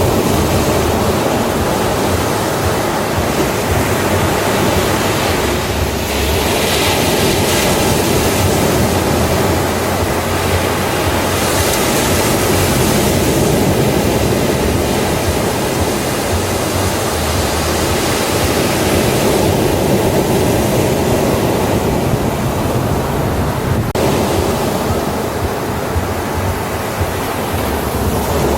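Ocean surf breaking on a beach: a continuous wash of water, with brighter hissing surges as waves run in, about six seconds in and again around twelve seconds.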